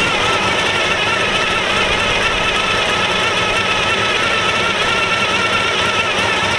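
An engine running steadily at an even speed, with a wavering whine over a rumble.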